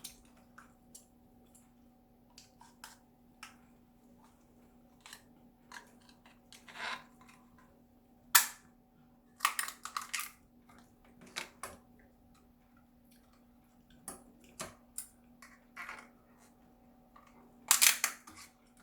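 Steamed lobster shell being cracked and pried open by hand: a series of sharp cracks and clicks, the loudest about eight seconds in, with a run of them just after and another near the end.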